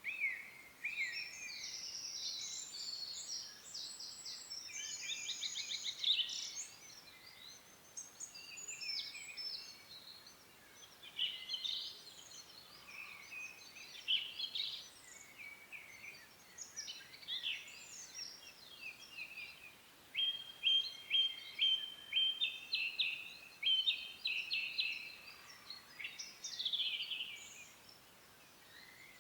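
Songbirds singing: varied, quick phrases of chirps and trills, with a run of evenly repeated notes about two-thirds of the way through.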